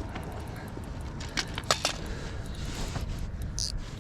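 Spinning reel's drag clicking in short runs as a hooked muskie pulls line off the light-line setup, the drag set too loose. A steady rumble of wind and water sits underneath.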